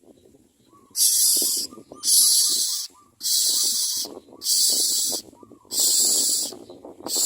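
Myna nestlings giving harsh, noisy calls in a regular series, about one a second, six in all, with faint short chirps under the first few.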